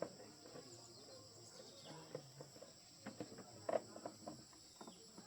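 Steady high-pitched insect chirring in the background, with scattered light clicks and knocks, most of them in the middle of the stretch.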